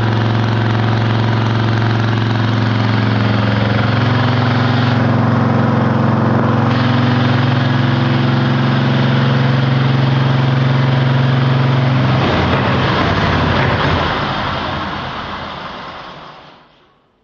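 A 1920s BMW R42's rebuilt 500 cc side-valve flat-twin engine running steadily on the stand, freshly restored and running after some 50 years laid up. About twelve seconds in, the even running note breaks up into a rougher sound, which then fades away near the end.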